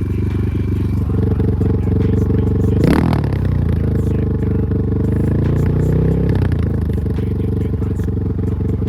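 Enduro motorcycle engine running under way, with a sharp clatter about three seconds in, then the revs dipping and climbing again.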